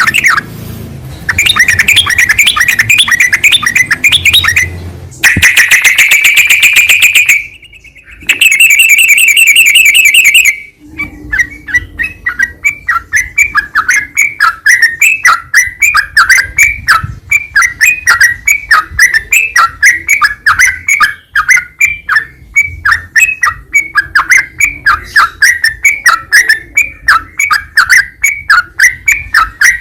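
Recorded song of a yellow-vented bulbul, played as a training track: loud, fast chattering phrases that break off twice in the first ten seconds, then an even run of short repeated notes, a few a second.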